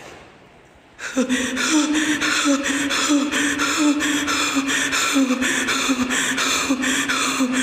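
A loud, evenly repeating crying sound, short sobbing gasps about three a second, starting abruptly about a second in.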